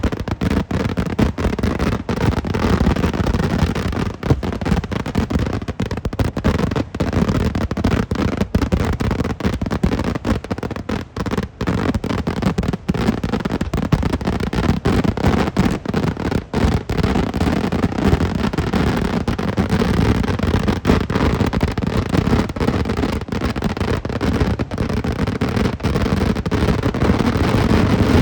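Kerala vedikkettu fireworks: a loud, continuous barrage of firecracker explosions, the bangs coming so fast they run together without a pause.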